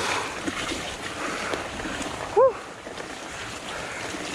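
Fat bike rolling over a rough, muddy dirt trail: a steady rushing noise of tyres, wind on the microphone and bike rattle. About halfway through comes one short, loud squeak that rises and falls.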